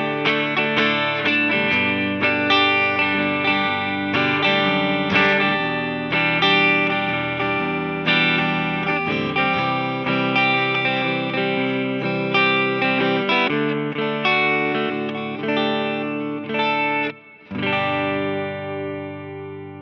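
1989 Gibson ES-335 semi-hollow electric guitar strummed through an amplifier: a steady run of chords, a brief stop about seventeen seconds in, then a last chord left ringing and fading away.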